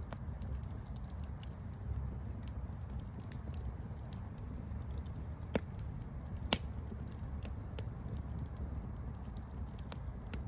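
Wood campfire crackling: a steady low rumble of flame with scattered small sharp pops, and two louder pops about a second apart past the middle, the second the loudest.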